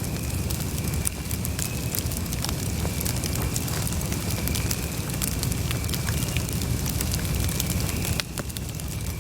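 Campfire burning, with scattered crackles and pops over a steady low rumble. The loudness drops slightly and suddenly about eight seconds in.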